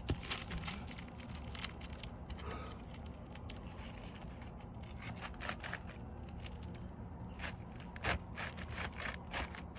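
Three-tab asphalt roof shingles being worked loose: irregular sharp scraping, crackling and tearing as the shingle tabs and their sealant strips are pried apart. The sounds come in quick clusters, thickest in the second half.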